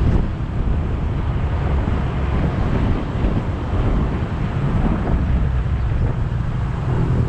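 Wind rumbling on an action camera's microphone on a moving motorbike, over steady engine and road noise.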